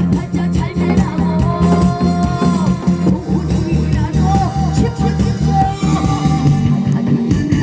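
A woman singing a Korean folk (minyo) song over a backing track with a steady, repeating bass and beat, with janggu drum strokes.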